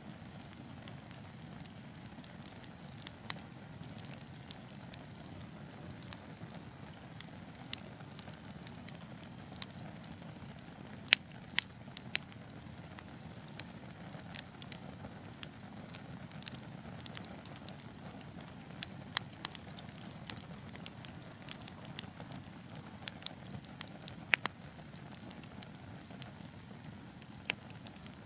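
Wood fire in a fireplace crackling, with a steady low rumble of flame and scattered sharp pops and snaps, the loudest a couple of cracks about 11 seconds in.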